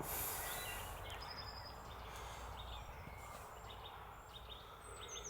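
Faint outdoor background noise with a low, steady rumble, and a few short bird chirps, one about a second in and another near the end.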